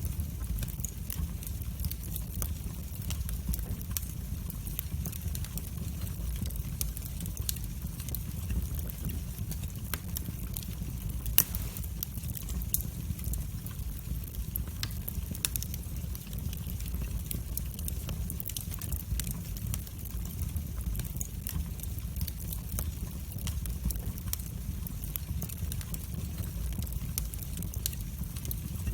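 Wood fire burning in a fireplace, crackling with frequent small irregular pops over a steady low rumble of the flames. One louder pop comes about eleven seconds in.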